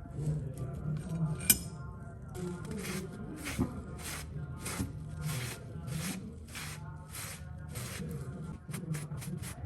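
Rasping strokes of a scissor blade being worked against an abrasive, as in filing or sharpening, about two strokes a second, then quicker, shorter strokes near the end. A sharp click comes before the strokes begin.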